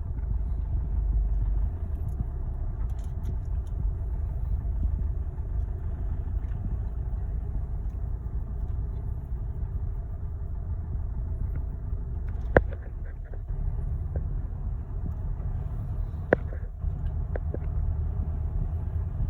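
Motor vehicle engine rumbling steadily and low, with two sharp clicks, one about two-thirds of the way through and another a few seconds later.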